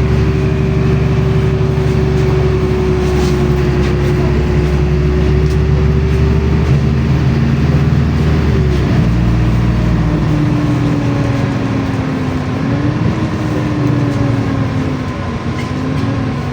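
LiAZ-5292 city bus under way, heard from inside the cabin: a steady low engine drone with a whine above it. About nine seconds in, the low drone drops away and the whine falls in pitch and wavers.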